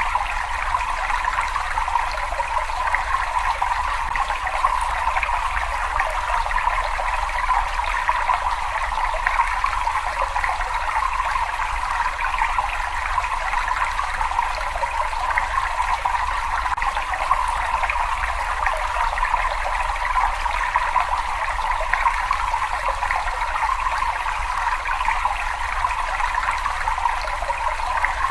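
Water running and trickling steadily in a cave, an even rushing sound with a faint low rumble underneath and no change throughout.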